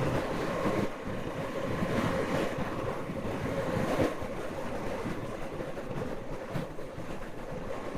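Steady wind rushing over the microphone of a Moto Guzzi V85 motorcycle as it is ridden, with a faint steady engine hum underneath.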